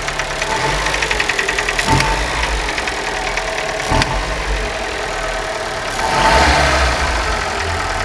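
Chevrolet Celta's Flex Power four-cylinder engine running at idle with a fast, steady knocking from inside the engine. The mechanic takes it for the knock typical of a piston pin or piston skirt with play, not a worn camshaft. The engine gets louder for about a second around six seconds in.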